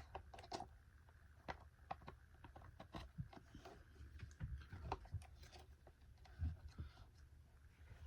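Faint, irregular clicks and light knocks of plastic vacuum parts and wires being handled and fitted together by hand.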